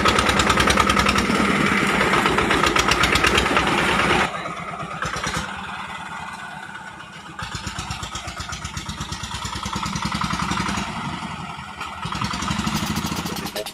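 Single-cylinder 'dompeng' diesel engine of a home-built oil-palm hauling vehicle running with a rapid, even beat. Loud at first, it drops sharply about four seconds in and then rises and falls in level.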